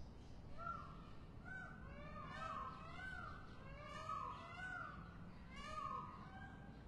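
Birds calling outdoors: a rapid series of short calls that rise and fall in pitch, several overlapping one another, over faint background hiss.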